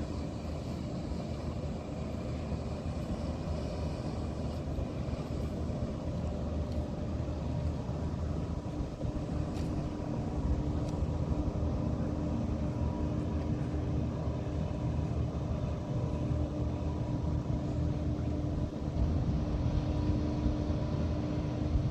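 A transport vehicle running steadily: a low rumble with a faint steady hum that grows stronger about nine seconds in.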